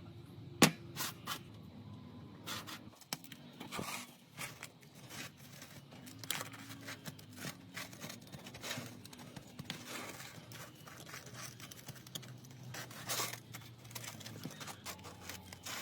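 Small tools scraping, clicking and tapping on a smartphone during repair work: irregular scrapes with short sharp clicks, the loudest click about half a second in.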